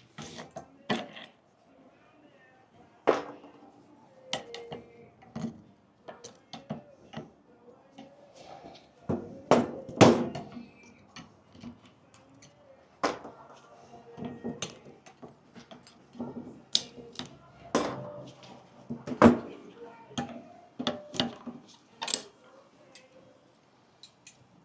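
Brake pads and metal hardware-kit clips being handled and fitted by hand: irregular metal clinks and clacks, with sharper knocks about 3, 10, 13, 19 and 22 seconds in.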